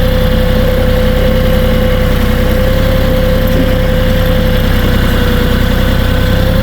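Kioti 3520 HST compact tractor's diesel engine running steadily, with a steady whine over the low engine drone.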